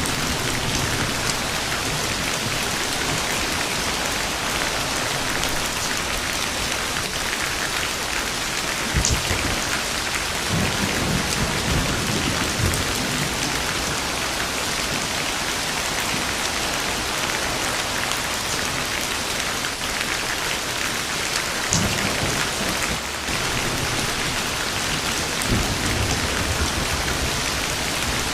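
Steady rain falling, with thunder: a sharp crack about a third of the way in followed by several seconds of low rumbling, and more low rumbles later on.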